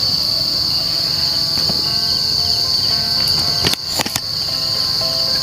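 Steady chorus of night insects in forest, a continuous high-pitched buzz, with a few sharp clicks or knocks a little under four seconds in.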